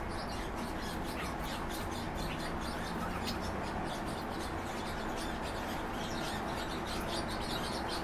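Many small caged birds chirping together: a dense stream of short, high chirps and squeaks overlapping throughout.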